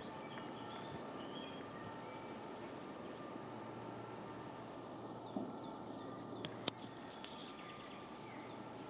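Woodland background with a bird repeating a short, high, falling note about three times a second for several seconds. Two sharp clicks come in the middle.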